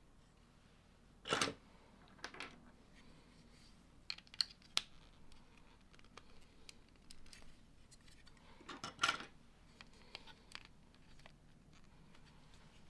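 Plastic Lego pieces being handled and pressed together: scattered clicks and light rattles, loudest about a second and a half in and again around nine seconds.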